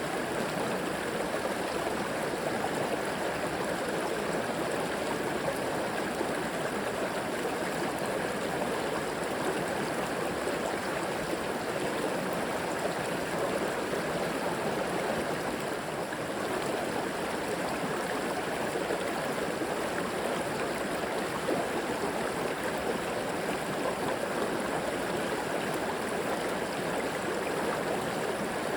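River water flowing and burbling steadily over rocks, an even rushing with no breaks.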